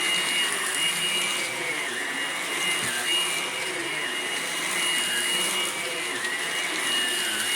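Bissell vacuum cleaner running steadily, its motor whine dipping briefly and recovering every second or two over a steady high tone.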